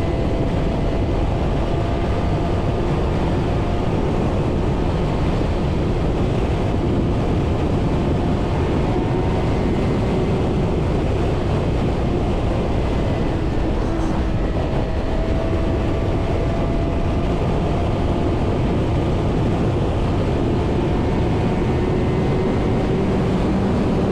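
Suzuki GSX-R inline-four sportbike cruising at highway speed, heard through heavy wind rush over the helmet microphone, with faint engine tones drifting slowly up and down.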